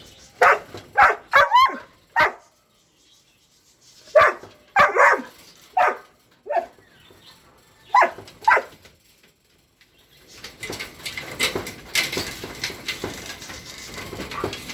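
A dog barking in short, separate barks, about a dozen in the first nine seconds with gaps between them. It is followed by a softer, busier mix of clicks and rustling for the last few seconds.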